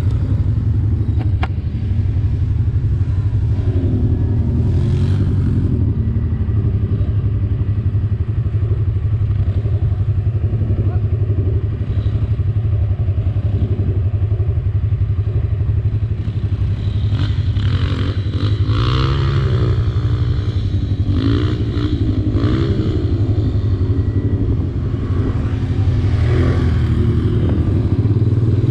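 Quad bike (ATV) engine running steadily under way, its revs rising and falling a few times in the second half.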